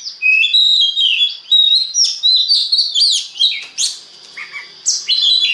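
Oriental magpie-robin singing a fast, varied song of whistles and chirps, with a short lull a little past the middle.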